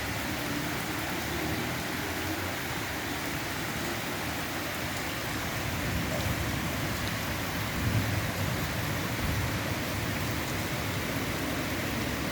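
Steady rain falling, an even hiss of drops with no break, and a brief low rumble about eight seconds in.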